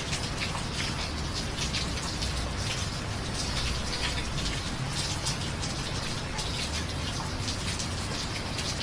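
Steady rain, with many close drops tapping over an even hiss and a low steady rumble underneath.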